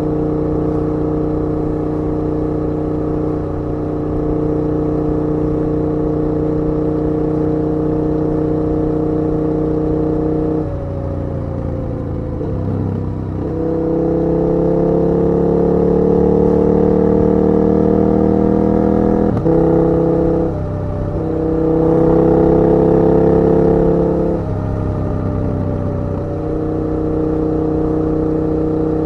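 KTM 1290 Super Duke R's V-twin engine under way. It holds a steady pitch, eases off about a third of the way in, then pulls with rising pitch, broken twice by brief drops for gear changes, and settles back to a steady cruise near the end.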